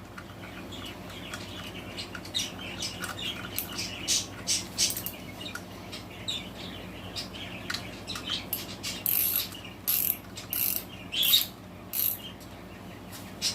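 Ratchet wrench clicking in short runs as the engine's cylinder head bolts are run down snug, with louder ratcheting strokes toward the end.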